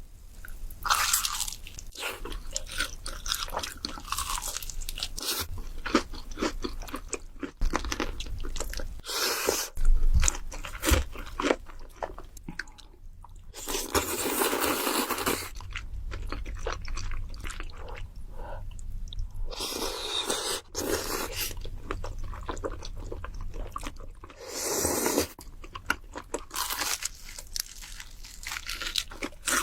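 A person eating crunchy food, chicken nuggets and pickles, with repeated crunching, chewing and clicking mouth sounds. A few longer hissing stretches of a second or two come in the middle and near the end.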